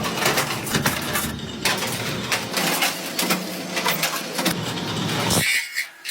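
Workshop noise: a steady mechanical running sound with many sharp knocks and clanks, cut off abruptly near the end.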